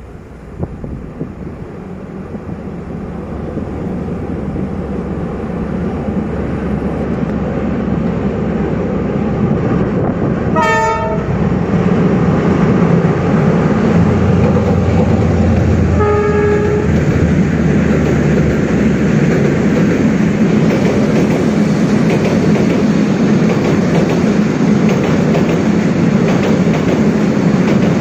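Diesel locomotive hauling a passenger train across a bridge, growing louder as it approaches over the first dozen seconds, then a steady heavy rumble of engine and wheels. The horn sounds twice, briefly, about eleven and sixteen seconds in.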